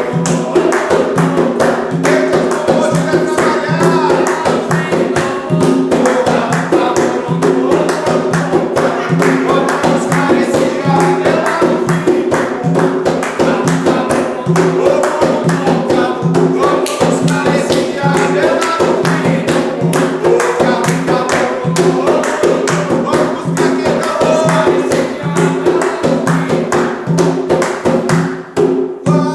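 An Umbanda ponto sung by a group over fast, continuous hand percussion with a jingling, tambourine-like rattle.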